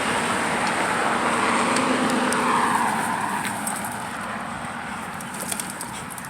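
A car driving past, growing louder to a peak about two and a half seconds in, then fading away.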